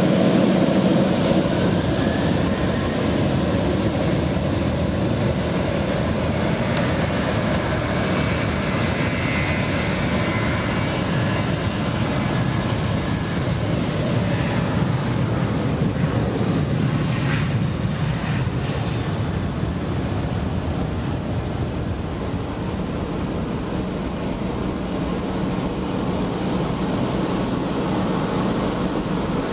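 Boeing 737-800's twin CFM56-7B turbofan engines running at takeoff power, a steady loud jet noise with a faint whine.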